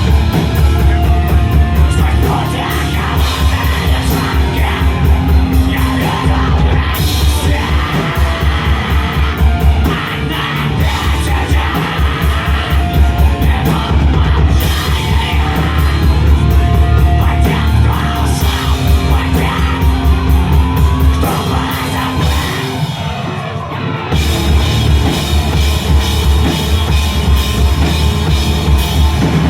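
A rock band playing heavy music live, loud and dense, with a pounding drum kit and vocals. The drums drop out for about a second about three-quarters of the way through, then come back in.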